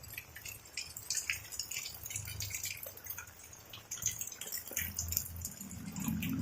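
Rain drips and drops landing irregularly, many short ticks at uneven intervals over a faint low hum.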